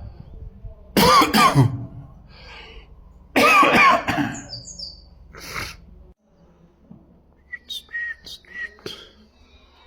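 Two loud, harsh coughs about two and a half seconds apart, then a few short, high songbird chirps near the end.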